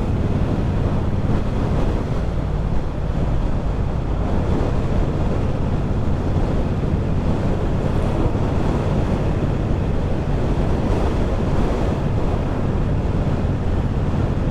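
Wind rushing over the microphone of a motorcycle at steady road speed, over the steady low running of a Triumph Bobber's 1200 cc parallel-twin engine.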